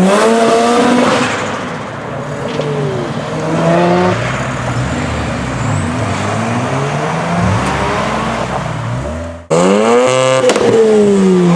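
Mazda RX-7 rotary engine accelerating hard, its pitch climbing and then stepping down and changing several times. After a sudden cut near the end, the engine is revved loudly, its pitch rising and falling.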